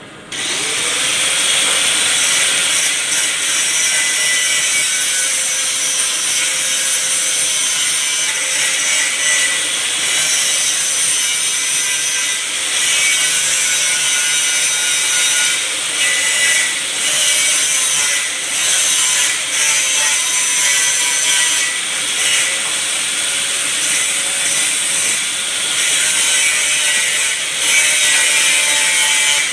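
A machine running steadily and loudly: a high hissing whir with a faint, wavering whine beneath it. It starts abruptly and runs without pause.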